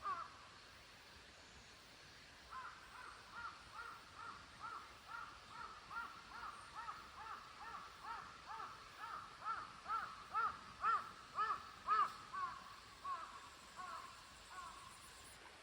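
A bird calling over and over: a long run of short, arched calls at about two a second. It starts a couple of seconds in, grows louder, then fades near the end.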